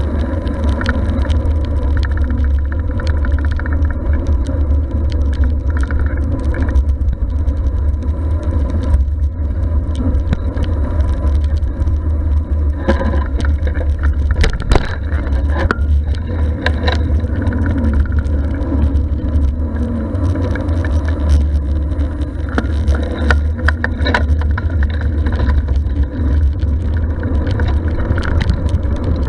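Bicycle riding along, heard through an action camera's microphone: a steady low wind-and-road rumble, with scattered clicks and rattles from the bike.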